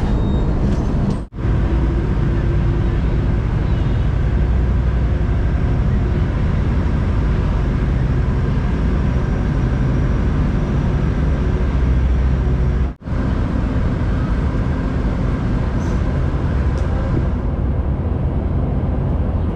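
Motorcycle riding noise picked up by an action camera: steady wind rush and road and engine noise, heaviest in the low end. The sound cuts out abruptly for a split second twice, about a second in and again near the middle.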